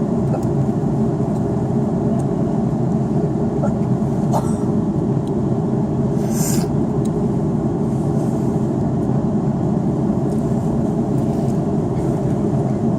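Steady low rumble of airflow and engines heard inside the cabin of an Airbus A330-300 in flight, with short hisses about four and six seconds in.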